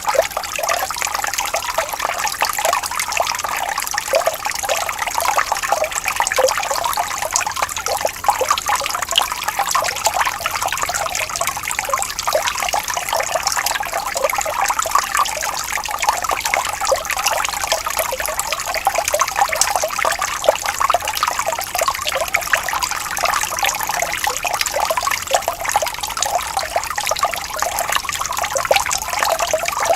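Water flowing and trickling steadily in a small stream, a dense splashing and babbling without pauses.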